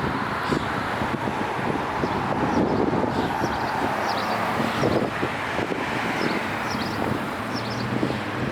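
Steady downtown street traffic noise, with wind buffeting the microphone and short high chirps now and then.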